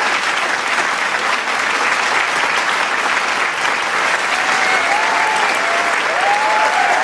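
Large crowd applauding with dense, steady clapping; from about two-thirds of the way in, cheering voices and whoops rise over the clapping.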